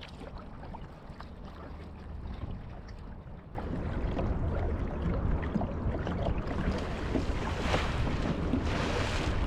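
Wind buffeting the microphone over the water sounds of a kayak being paddled, with small drips and clicks and two brief splashy swells near the end. The sound steps up suddenly about a third of the way in.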